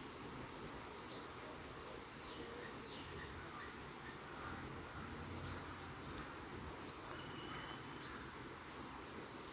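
Faint outdoor nature ambience: a steady high-pitched insect drone, with a few short, faint bird chirps scattered through it.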